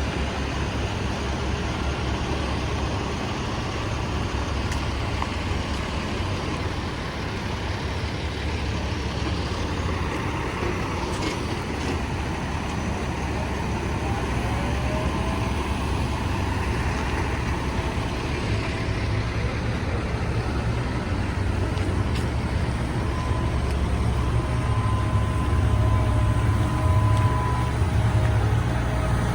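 Heavy diesel construction machinery running steadily with a deep engine rumble, growing slightly louder toward the end. About halfway in, a faint thin whine rises and then holds steady alongside it.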